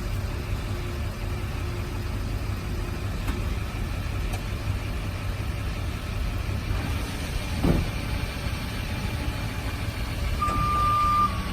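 GMC bucket truck's 6.6-litre Duramax turbo diesel idling steadily. Near the end a steady electronic warning tone comes on, the alarm that sounds as the outriggers are lowered.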